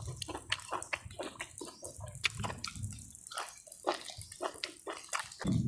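Close-up wet chewing and lip-smacking of a person eating beef offal: soft, irregular smacks and squelches several times a second.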